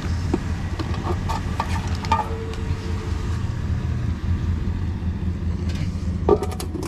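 Steady low hum of an idling vehicle engine, under scattered light knocks and clicks of a metal swivel bar stool being handled and rocked to test its wobble; a quick cluster of knocks comes near the end.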